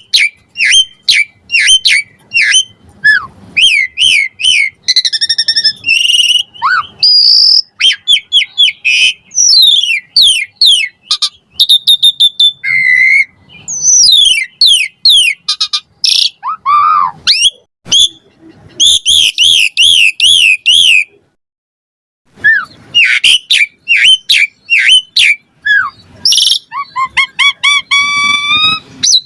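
Asian pied starling singing a loud, varied song of short whistles, slurred chirps and fast repeated trills, broken by one brief pause about three-quarters of the way through.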